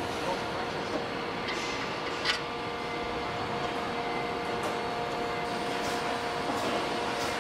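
Steady industrial machinery noise: an even mechanical hiss and rumble with two held tones and a few light knocks, the sharpest about two seconds in.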